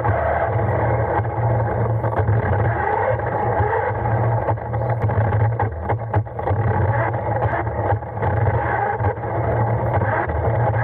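Radio-controlled car's electric motor and gears whirring as it drives, the whine rising and falling with speed, over a steady low rumble and scattered clicks and rattles from the chassis rolling along.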